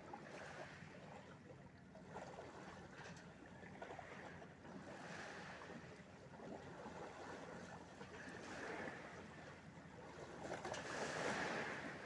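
Sea waves washing and splashing, swelling and fading several times, with the biggest surge near the end.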